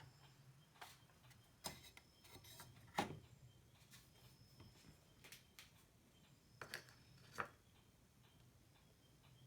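Near silence with scattered light clicks and taps of small tools and parts being handled on an electronics workbench, the sharpest about three seconds in, over a faint low hum.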